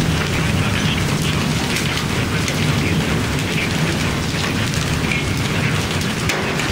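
Hailstones and heavy rain pounding down in a dense, steady clatter of separate impacts.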